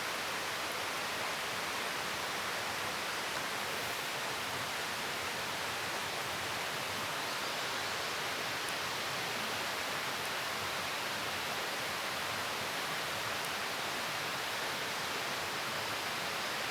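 Steady, even rushing noise outdoors, unchanging throughout, with no distinct events.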